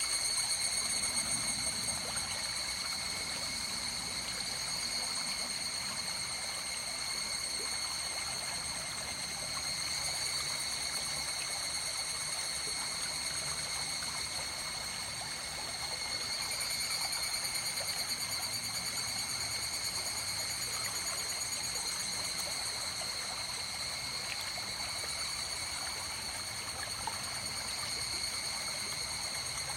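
River water flowing and trickling steadily, with a steady high-pitched ringing of several tones above the rush of the water.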